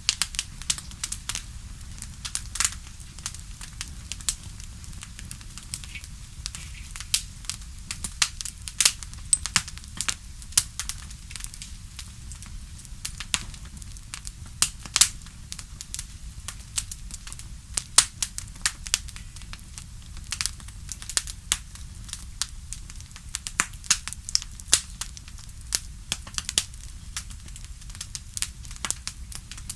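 Wood fire in a fireplace crackling: irregular sharp pops and snaps, some much louder than others, over a low steady rumble.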